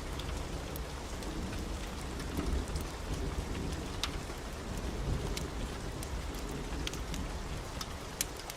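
Heavy rain falling steadily under a low rolling rumble of thunder that eases off near the end, with scattered sharp ticks over the top.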